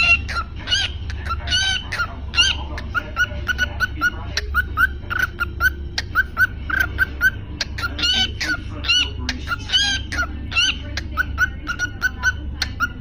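Cockatiel chirping over and over in short, pitched calls, some of them rising, with small clicks in between and a low steady hum underneath.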